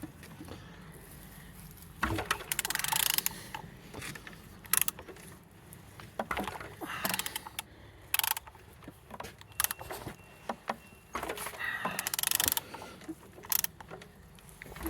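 Used L3V5 engine being turned over by hand: irregular bursts of mechanical clicking and rasping as it is rotated, and it turns well with full compression.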